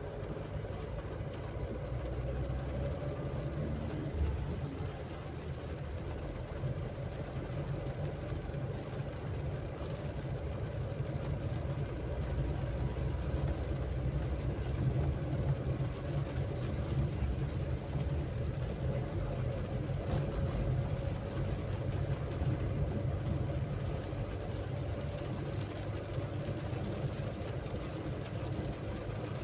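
A vehicle running: a steady low engine rumble with a faint hiss over it.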